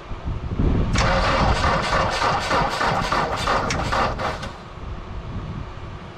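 An engine being cranked by its starter motor for about three and a half seconds, with fast even pulsing, then stopping without catching; the battery is still too flat to start it.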